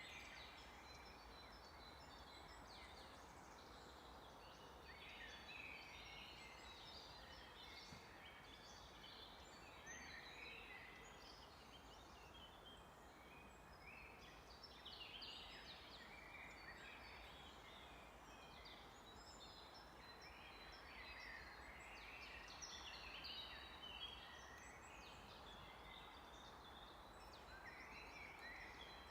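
A chorus of many small birds singing and chirping at once, short overlapping calls and warbles that go on without a break, faint over a steady background noise.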